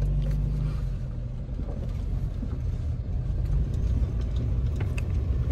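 Honda Element's K24 four-cylinder engine running as the car drives off, heard from inside the cabin as a steady low drone. The engine's valves have just been adjusted.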